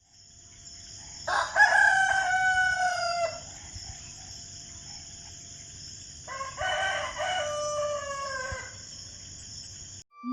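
Rooster crowing twice, each crow about two seconds long and tailing off downward in pitch, over a steady high-pitched hiss.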